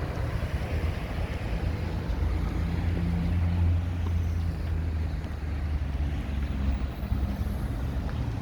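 Street traffic on a busy avenue: a motor vehicle's engine hums low and close, swelling a couple of seconds in and easing off toward the end.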